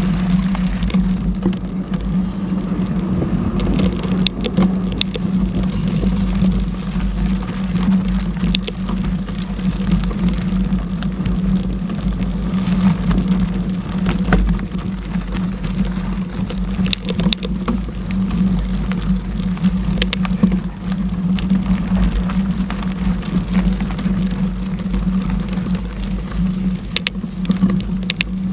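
Mountain bike riding noise picked up by the bike- or rider-mounted camera: a steady loud rumble of tyres on the trail and wind on the microphone, with scattered sharp rattles and clicks from the bike.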